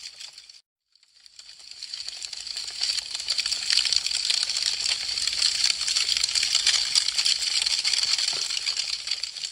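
Wood fire crackling: a dense run of small, rapid snaps and pops. It drops to silence for a moment just before a second in, then fades back up over a couple of seconds.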